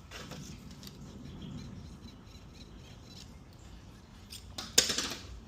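Metal transmission parts handled on a workbench: faint scraping and small squeaks and ticks, then one sharp knock near the end.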